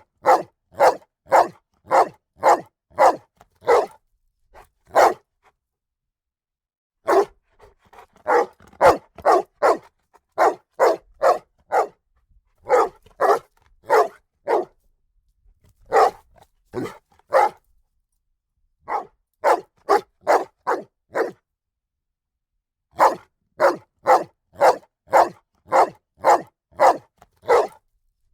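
A dog barking in bouts of short, sharp barks, about two a second, with pauses of a second or two between bouts.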